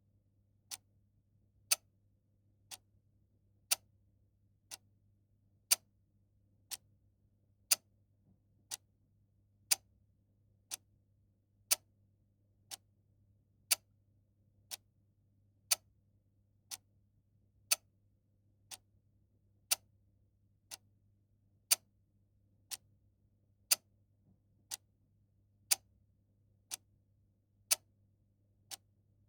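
A clock ticking steadily, about one tick a second, with some ticks louder than others.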